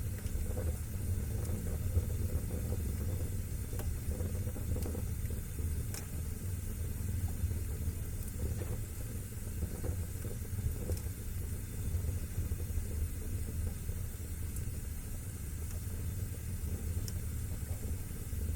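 Wood fire burning in a fireplace: a steady low rumble with a faint hiss, and now and then a sharp crackle or pop.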